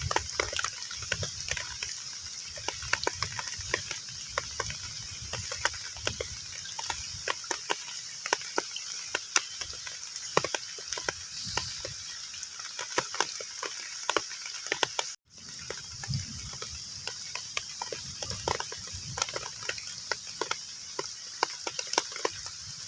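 Rain falling on a pond's water surface: a steady hiss with many separate drop splashes and plops. About fifteen seconds in it cuts out completely for an instant, then resumes.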